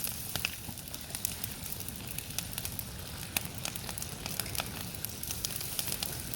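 Wood campfire crackling: frequent sharp, irregular pops and snaps over a low, steady rush.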